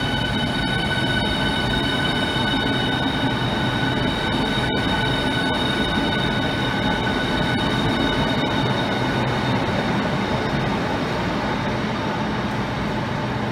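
Southeastern Class 395 Javelin electric train pulling out along the platform: a steady high-pitched whine of several tones over the rumble of the moving train, easing off slightly near the end.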